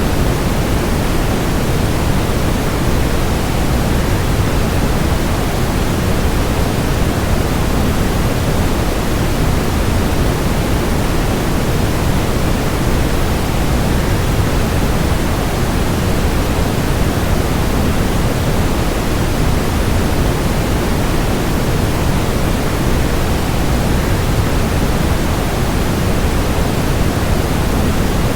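Steady, unbroken rushing of a waterfall blended with added white noise, a deep even hiss with no change in level.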